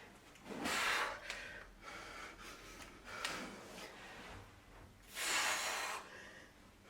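A woman breathing hard from exertion during a kettlebell set: a few heavy breaths, the longest and loudest about five seconds in.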